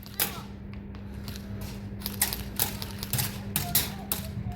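Airsoft guns firing irregular single shots: sharp clicks and snaps scattered a few to a second, over a steady low hum.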